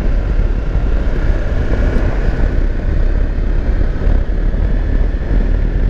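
Riding noise on the Kawasaki Versys X 300: heavy, steady wind rumble on the microphone with the bike's parallel-twin engine running underneath and a faint steady whine.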